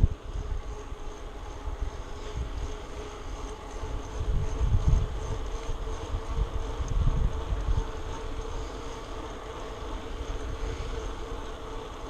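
Wind buffeting the microphone of a camera riding along on a bicycle, as low rumbling gusts that swell about four to five seconds in and again around seven seconds, over a steady faint hum.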